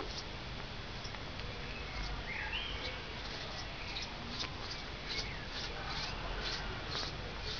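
Small birds calling: a short warbled call about two seconds in, then a run of brief high chirps about twice a second through the second half, over a steady low rumble.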